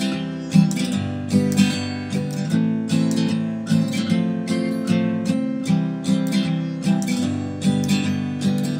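Acoustic guitar strumming chords in a steady rhythm, an instrumental break in a folk-country song.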